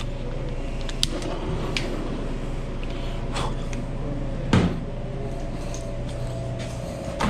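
Commercial kitchen work sounds: a steady machine hum under scattered clicks and knocks of containers and utensils being handled, with one louder knock about four and a half seconds in.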